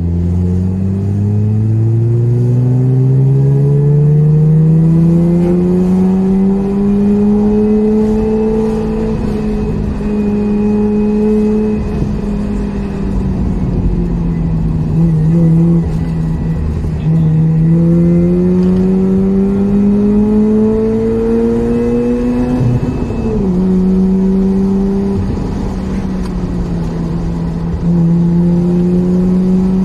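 Mazda RX-8's twin-rotor Wankel rotary engine heard from inside the cabin, pulling through the revs under acceleration. The note climbs steadily for several seconds, eases off midway, climbs again, dips sharply and picks back up near three-quarters through, then holds steady, over constant tyre and road noise.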